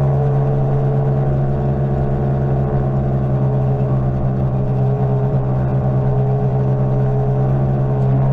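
Greenworks 60V electric mini bike riding at a steady speed: its motor and drive give a steady hum that holds one pitch throughout, over a fluctuating low rumble of wind and road.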